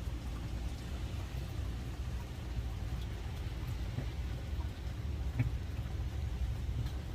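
Steady rain: an even, low rumbling hiss with a few faint, scattered ticks.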